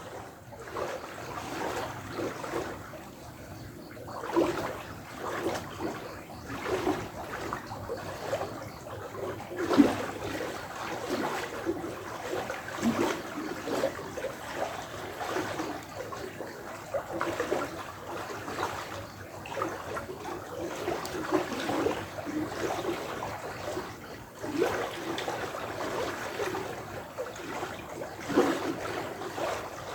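Running water gurgling and splashing in quick, irregular pulses, with a hollow, echoing ring.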